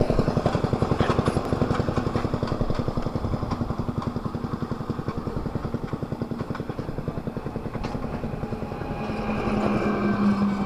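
Motorcycle engine running with an even, rapid beat. A steady hum grows louder near the end.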